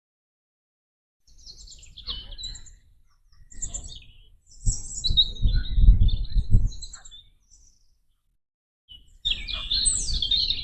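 A small songbird chirping and singing in short, quick phrases, in several bouts with brief gaps. A low rumble rises and falls under the song, loudest about halfway through.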